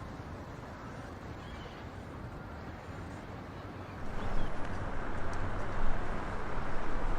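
Strong wind buffeting the microphone as a rumbling, gusty noise, growing much louder about four seconds in.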